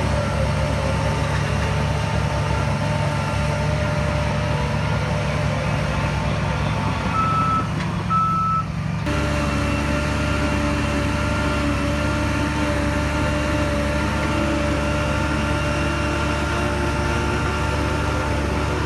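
Heavy diesel earthmoving machinery engine running steadily, with two short reverse-alarm beeps about seven to eight seconds in. The engine note changes abruptly about nine seconds in.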